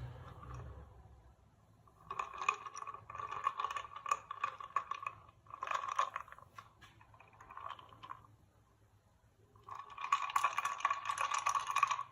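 Scraping and crunching in four spells of scratchy, ticking noise, the longest a few seconds long and the loudest near the end.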